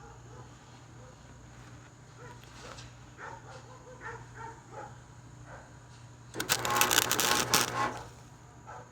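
An electric welder striking an arc to tack-weld the sheet-steel side chute of a push mower: one loud crackling burst about six seconds in that lasts under two seconds, after a few faint handling clicks.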